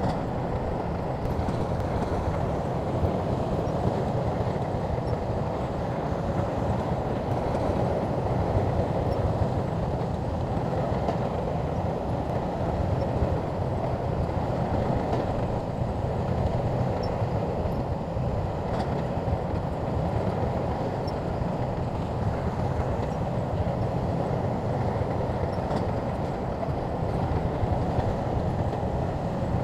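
SHANTUI bulldozer's diesel engine running steadily under load, with some faint clanking.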